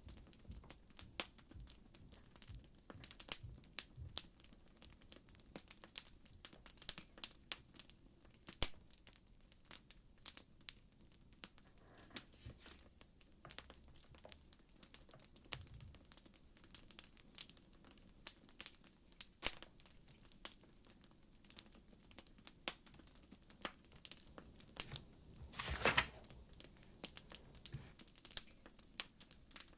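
Campfire crackling: irregular sharp pops and snaps of burning wood, with a louder burst of crackling about 26 seconds in.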